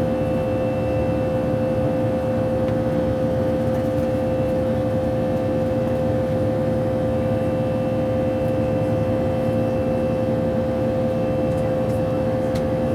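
Steady jet engine and airflow noise inside the cabin of an Airbus A319, a low rumble with a steady droning tone over it.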